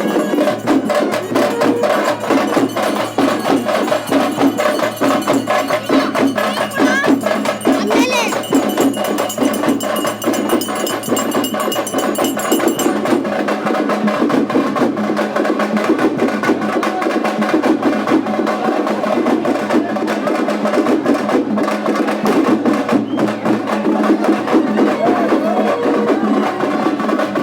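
Loud, fast percussion music: a dense, steady run of sharp drum strokes.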